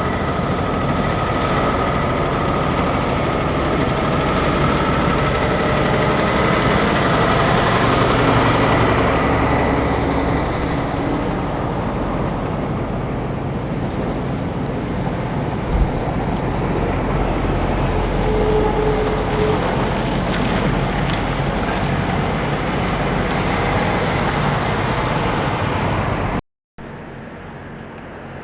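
Semi trucks driving past on a road: steady engine and tyre noise that swells about eight seconds in, with a brief thump around the middle. The sound cuts out for a moment near the end and comes back quieter.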